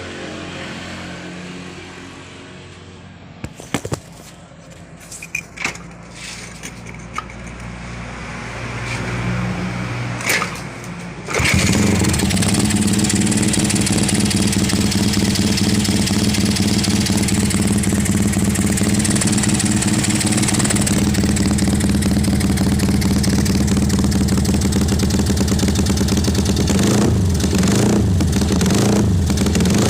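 Homemade two-cylinder motorcycle engine in a Honda GL: a low hum and a few clicks, then about eleven seconds in it suddenly comes up loud and runs steadily, with a brief blip of revs near the end.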